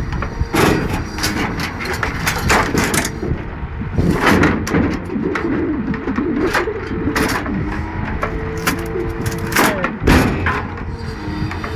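Scania 164C's V8 engine running to drive the timber crane's hydraulics, with whining tones that come and go as the crane moves. Irregular knocks and clunks of logs being gripped and dropped.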